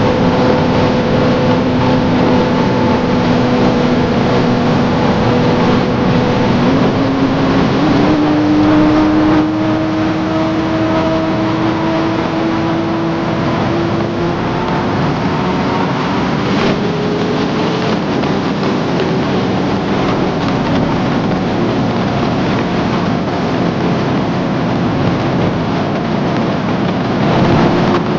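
2019 Kawasaki ZX-10R superbike's inline-four engine running at a steady cruise while ridden, its pitch stepping up about seven and eight seconds in and then climbing slowly, with wind rushing over the microphone.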